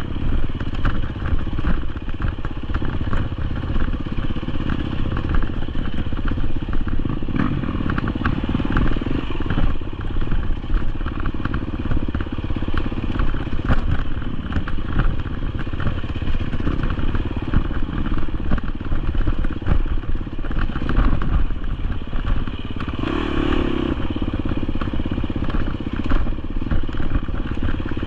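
GasGas EX250F enduro dirt bike's 250cc four-stroke single-cylinder engine running steadily as the bike is ridden off-road, with constant rattling and clatter from the bike and terrain.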